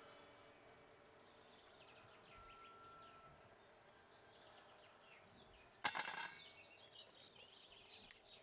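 Faint rural outdoor ambience with scattered small bird chirps and a brief whistled note; a single sudden loud knock about six seconds in, ringing briefly.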